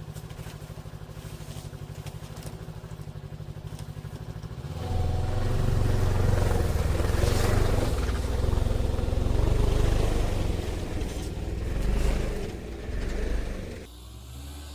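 Snowmobile engine idling with an even low pulse, then throttled up about five seconds in and running under load as it drives off through the snow, easing off near the end.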